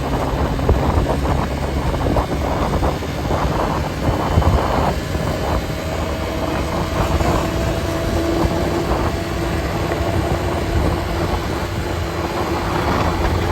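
Vehicle driving along a road: a steady rumble of engine and tyres, with wind buffeting the microphone and a faint steady hum coming in about five seconds in.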